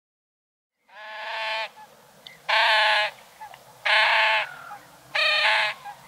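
A bird calling four times, each call loud and about half a second long, the calls coming about a second and a half apart and starting about a second in.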